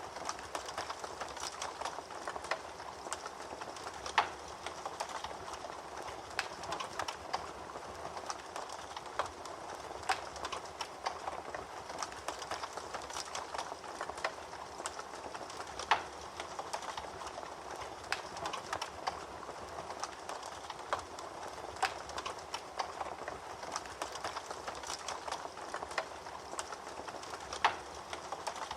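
Fire crackling in a fireplace: a steady hiss with irregular snaps and crackles, and a few sharper, louder pops.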